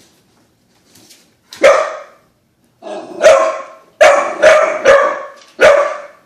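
Dog barking repeatedly: about six loud, sharp barks in the second half, the last four coming in quick succession, with a faint bark or yip about a second in.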